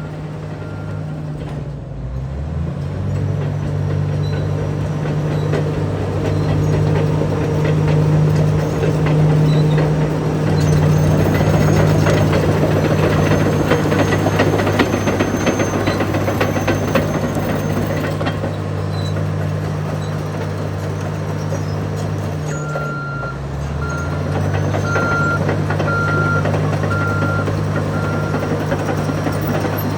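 Cat D9T crawler dozer's C18 diesel engine running under load, its engine note shifting as the machine changes speed, with the steel tracks clattering. About three-quarters of the way through, the backup alarm beeps repeatedly, about once a second, as the dozer goes into reverse.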